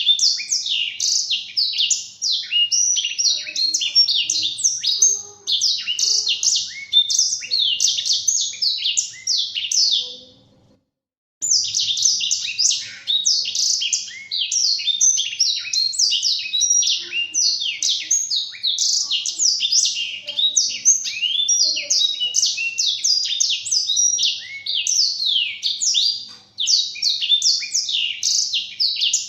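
A blackthroat (black-throated canary) singing a fast, unbroken twittering song of quick, high, falling notes. About ten seconds in, the song stops completely for about a second.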